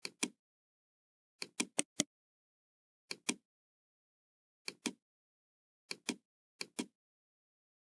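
Computer mouse clicking, in quick pairs of clicks, seven pairs at uneven intervals, with dead silence between.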